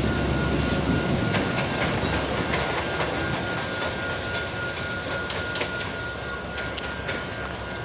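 Passenger train running on the rails, wheels clicking over the track with a thin steady high whine, the noise slowly easing off.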